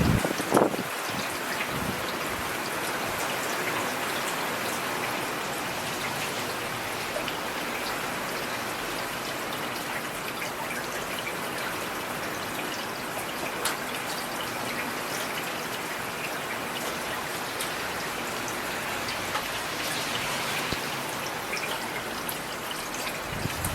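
Steady rain falling, with individual drops ticking and splashing through an even hiss. A single louder thump comes about half a second in.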